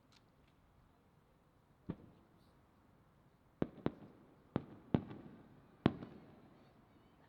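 Firework shells bursting in the sky: six sharp booms at irregular intervals, the first alone about two seconds in and the rest close together in the second half, each trailing off briefly.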